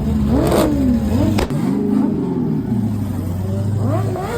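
Engine revved over and over in a rev battle, its pitch climbing and dropping several times, with a sharp crack about a second and a half in.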